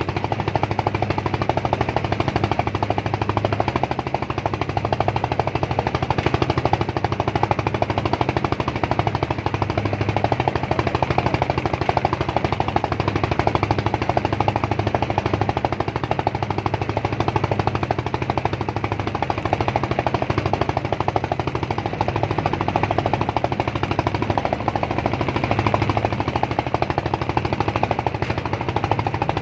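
A small engine running steadily at an even speed, with a rapid, unbroken pulsing beat.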